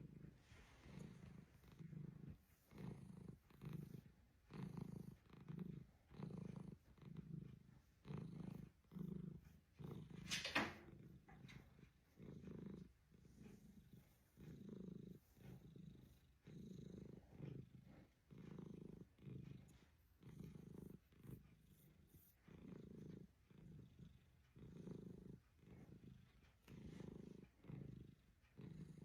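Domestic cat purring softly, swelling and fading about once a second. About ten seconds in there is one brief, sharper sound, louder than the purring.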